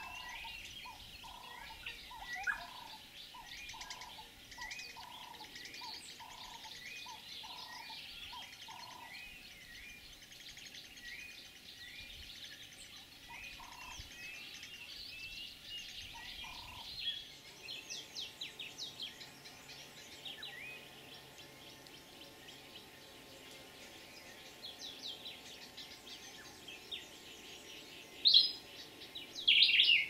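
Wild birds calling: a short rising chirp repeated about every three-quarters of a second over a lower repeated note, with other birds twittering around it. About halfway through the background changes, and near the end come a few loud, sharp calls, the last one sliding down in pitch.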